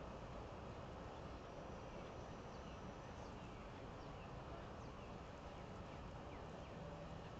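Faint steady background hiss with a scattering of faint, short, high chirps from a little way in.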